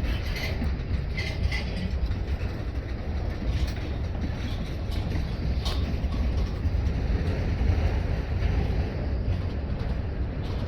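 Train rolling past on the track: a steady low rumble of wheels on rail, with scattered short metallic clicks and squeals.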